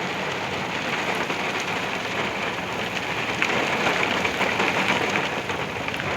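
Rain falling steadily as a thunderstorm moves in: an even hiss of rain on surfaces with many small drop ticks, building toward heavy rain.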